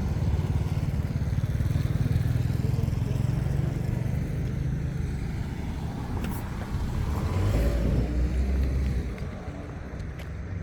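A motor vehicle's engine running with a low, steady rumble; the hum shifts lower about seven seconds in, then eases off slightly near the end.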